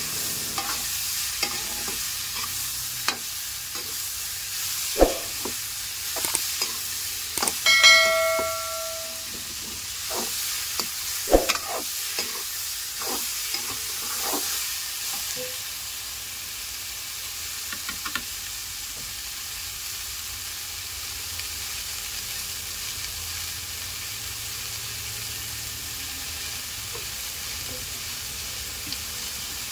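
Corn kernels with tomato and green chilli sizzling in a metal kadhai, with a spatula scraping and knocking against the pan through the first half. A short ringing tone sounds about eight seconds in. After that the frying goes on as a steady sizzle.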